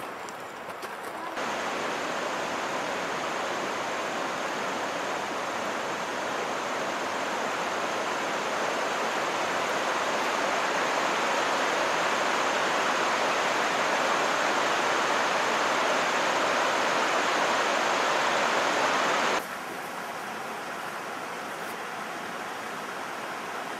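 Rushing water, such as a river or waterfall, making a loud, even hiss. It starts suddenly about a second in, grows slightly louder, and cuts off abruptly near the end, leaving a quieter steady rush.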